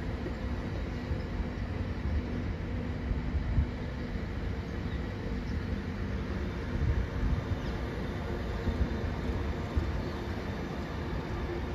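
Siemens Desiro ML electric multiple unit rolling slowly past: a steady low rumble of wheels on track, with a faint steady hum above it.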